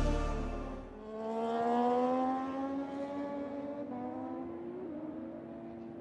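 A MotoGP racing motorcycle's engine, its note rising slowly in pitch as it accelerates, then holding with a brief wobble about five seconds in. Music fades out in the first second.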